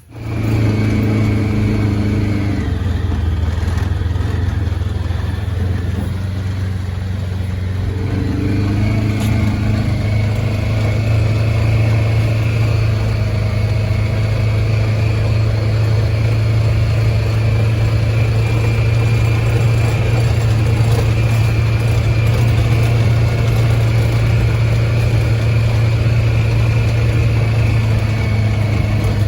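Tractor engine running steadily, its note dipping briefly a few seconds in before holding steady again.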